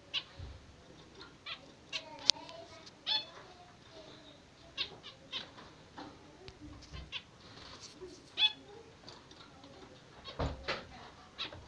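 Caged budgerigars chirping and chattering in short, scattered calls, a few sharper than the rest.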